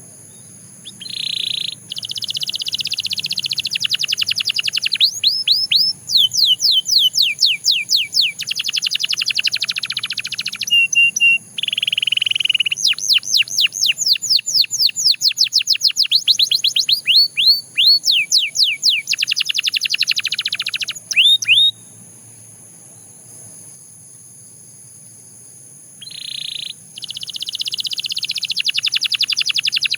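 Canary singing long phrases of fast trills: rapid runs of quick falling notes alternating with buzzy rolls. The song breaks off about two-thirds of the way in and starts again a few seconds before the end.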